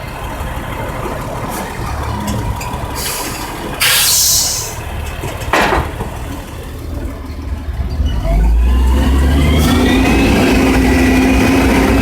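Yard truck's diesel engine running, with a burst of air hiss about four seconds in and a sharp click shortly after. About eight seconds in the engine revs up, its pitch rising, then holds a steady higher speed.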